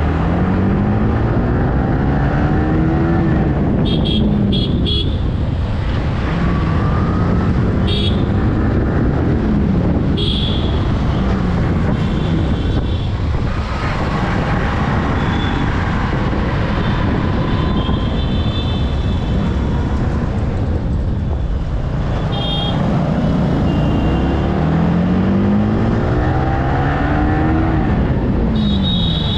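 Yamaha R15 V3 motorcycle ridden through traffic, its single-cylinder engine revving up and falling back again and again through the gears over steady wind and road noise. Short, high horn toots sound a few times.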